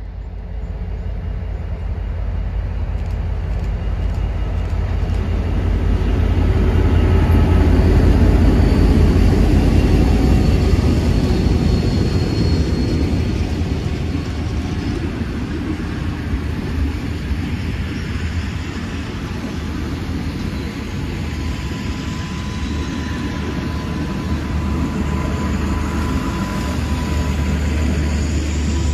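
A train running past, a continuous low rumble that builds to its loudest about eight seconds in and then eases off.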